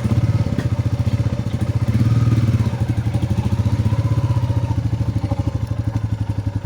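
Royal Enfield motorcycle's single-cylinder engine running at low revs with a steady, rapid thump.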